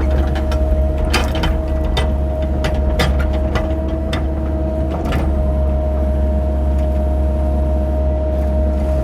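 Cat 308 mini excavator's diesel engine running steadily with a constant whine over it. Sharp knocks and clunks come one after another during the first five seconds as the bucket digs.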